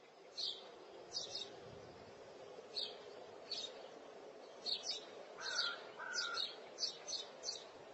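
Birds chirping: a run of short, high, falling chirps, coming more often in the second half, over a faint steady hum.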